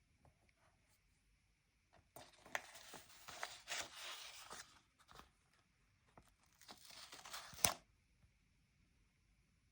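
Stickers being peeled off a paper sticker sheet: two stretches of papery peeling and rustling, the second ending in a sharp snap.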